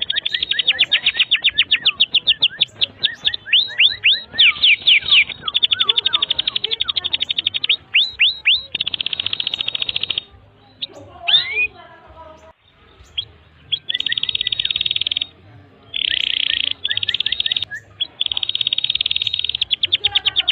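Domestic canary singing a long, continuous song: runs of very fast repeated notes and rapid trills, each run held for a second or two, with short breaks between them and a quieter stretch of looser, scattered notes about ten seconds in.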